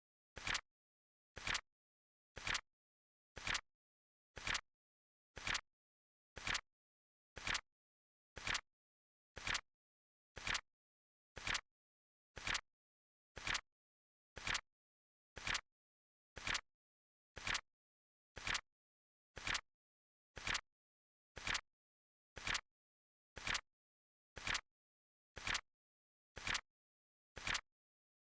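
Flip clock countdown sound effect: a short, crisp click once a second, each the flip of the seconds card, evenly spaced.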